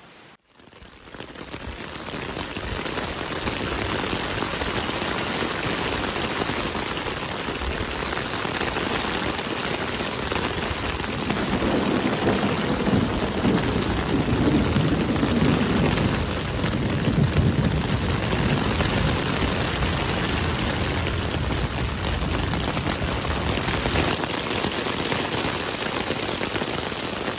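Heavy rain pouring down during a thunderstorm, with a low rumble of thunder swelling in the middle.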